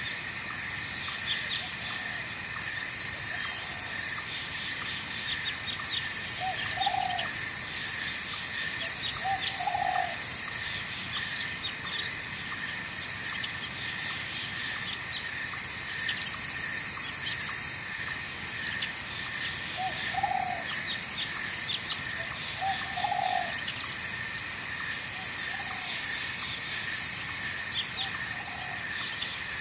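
Night forest ambience: a steady chorus of shrill insects, pulsing on and off in the highest pitches, over the hiss of flowing water, with a bird's short low calls every few seconds.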